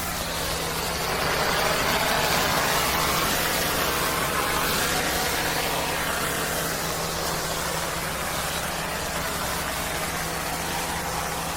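Pressure-washing rig's engine running at a steady speed, with a loud hiss of water spray over it that swells a second or two in.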